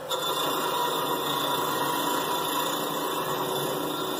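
Drill press spinning a wire brush wheel against galvanized steel pipe, scrubbing off the zinc coating: a steady whirring scrub that starts abruptly right at the outset.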